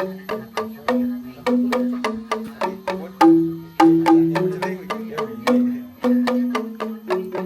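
Tuned percussion played live: a quick melody of sharp, ringing struck notes, about three or four a second.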